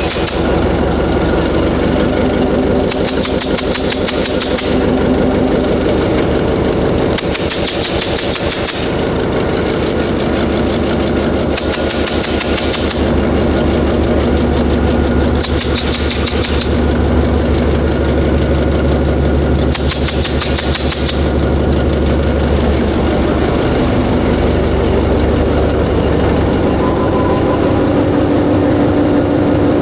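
Freshly overhauled diesel generator engine running steadily on its test run, with a hiss that swells and fades about every four seconds over the drone.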